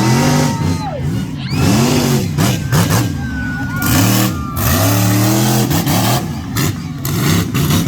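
Monster truck engine revved over and over in quick throttle blips, each one rising in pitch and dropping back, about one every half second or so.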